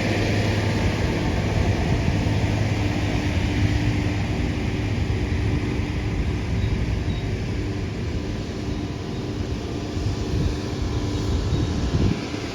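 Steady low rumble with a faint steady hum running through it, easing a little near the end.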